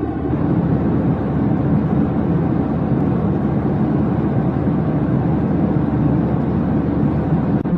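Steady low rumbling noise of a jet airliner in flight, as heard in the cabin. It is even throughout, with a brief dip near the end.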